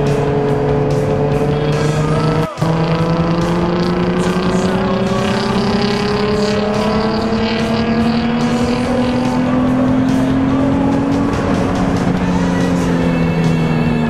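Car engine and road noise heard from inside a moving car's cabin. The engine's pitch climbs slowly and steadily as the car accelerates, then eases slightly near the end. There is a brief dropout about two and a half seconds in.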